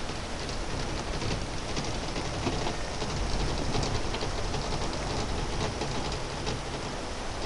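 Storm wind blowing hard and gusting, rumbling on the microphone, with a scatter of fine high ticks through it.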